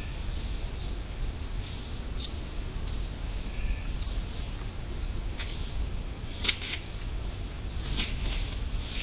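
Steady, high insect trill, typical of a cricket, with a few short high chirps or rustles breaking in now and then.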